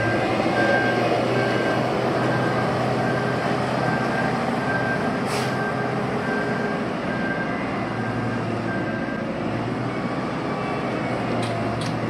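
Heavy road-construction machinery running steadily, with a reversing alarm beeping about every half second that stops about nine seconds in.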